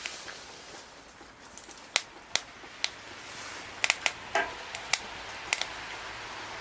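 Swedish torch (a split log burning from the inside) crackling, with about a dozen sharp, irregular pops and snaps over a faint steady hiss.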